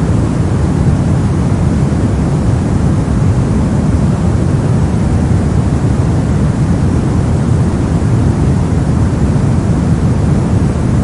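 Brown noise: a steady, unchanging deep hiss, strongest in the low end and fading toward the highs.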